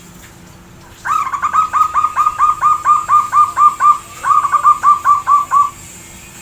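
Zebra dove (perkutut) singing a loud, fast run of staccato cooing notes, about five a second, with a brief break partway through.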